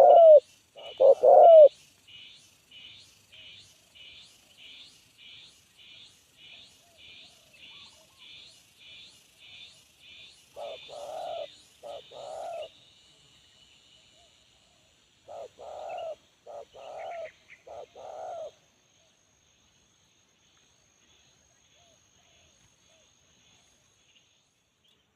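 Spotted dove (tekukur) cooing. There are coos at the start, a pair of coos about eleven seconds in, and a run of four notes around sixteen to eighteen seconds in. Through the first half a fainter, higher chirp repeats about twice a second.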